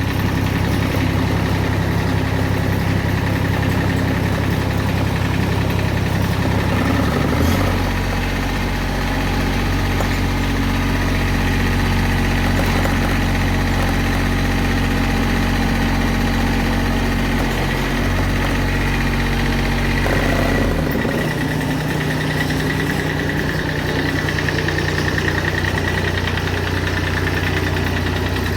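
Kubota BX2200 subcompact tractor's small three-cylinder diesel engine running steadily. Its note drops lower about a quarter of the way in and returns to the earlier note about two-thirds of the way through.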